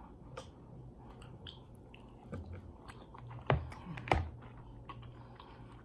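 Close-miked chewing of a sausage, rice and cucumber meal: soft wet mouth clicks, with two louder clicks about three and a half and four seconds in.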